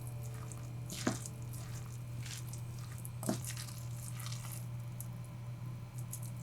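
Soft, scattered handling sounds of food being prepared by hand, wet and squishy, with a sharper tap about a second in and another past three seconds, over a steady low hum.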